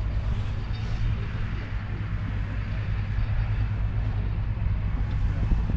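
JCB Fastrac 3220's 5.9-litre six-cylinder diesel engine running steadily, a low even rumble.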